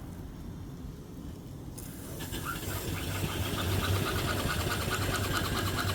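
A 5 HP antique-reproduction single-cylinder steam engine (3-inch bore, 4-inch stroke) mounted on its boiler, running with a fast, steady, rhythmic beat. About two seconds in it gets louder and brighter, and the rhythm stays even after that.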